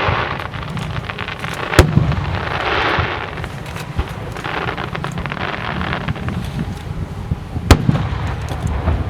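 Aerial fireworks shells bursting, with two sharp booms about two seconds and eight seconds in. Between the booms runs a dense crackling and fizzing from the burst effects.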